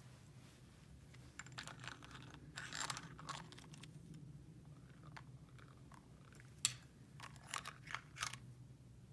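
Faint clicking and rustling as small toy pieces are handled, with a sharper click about two thirds of the way in.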